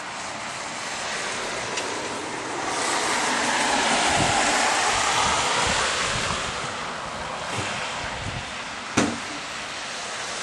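A vehicle passing on a wet road: a rush of tyre hiss that swells over a couple of seconds and slowly fades, with a single sharp click near the end.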